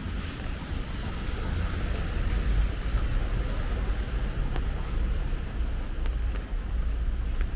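Steady rain falling, an even hiss over a low rumble, with a few faint ticks of drops.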